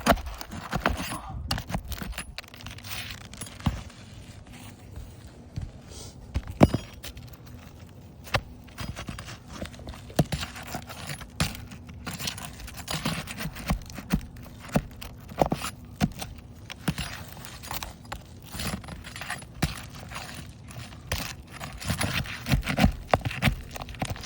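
Irregular clicks, knocks and scrapes of hands and tools working on a shingle roof, scattered throughout with no steady rhythm.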